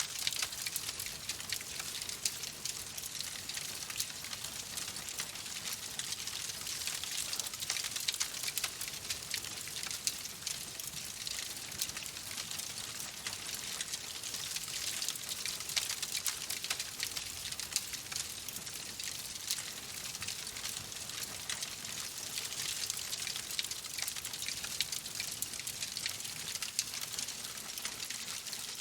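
Wood fire crackling in a fireplace: a dense, steady run of small snaps and pops over a hiss.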